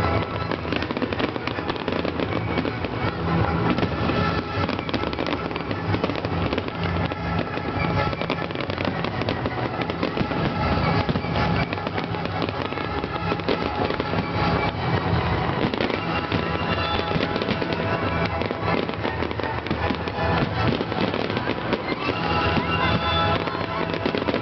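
Fireworks finale going off in rapid succession: dense bangs and crackling without a break, with music playing underneath.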